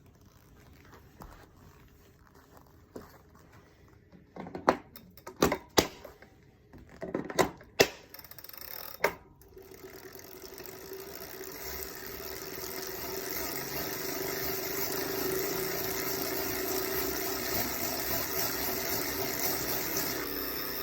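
A series of sharp clicks and knocks, then a Wahoo Kickr trainer's flywheel spinning up into a steady whirring drone with a held hum, rising over a few seconds and then holding. The drone is the abnormal propeller-like noise of a faulty flywheel that the owner reports overheated.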